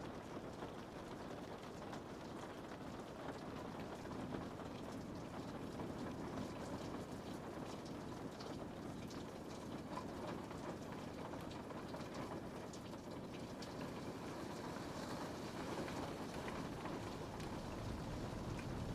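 Steady rain pattering on a window pane, a dense even hiss with many small drop ticks.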